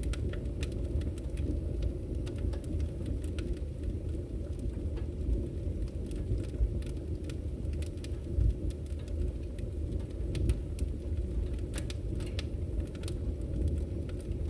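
Wood fire burning in a fireplace, crackling: scattered sharp pops and snaps over a steady low rumble.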